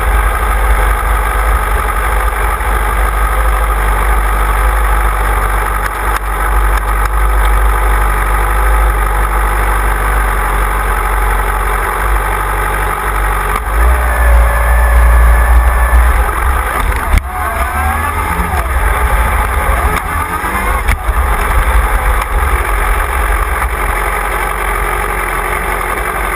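Motorcycle engine running under way, with heavy wind rumble on the mounted camera's microphone; the engine pitch rises and falls a few times in the second half.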